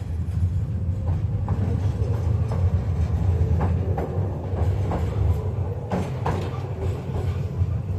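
KTM-5M3 (71-605) tram running along the track, heard from the passenger cabin: a steady low rumble of the traction motors and wheels with irregular clacks as the wheels pass over rail joints.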